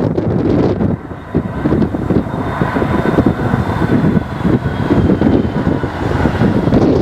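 Wind buffeting the microphone. From about two seconds in, a distant aircraft engine's whine rises out of it, its pitch slowly falling.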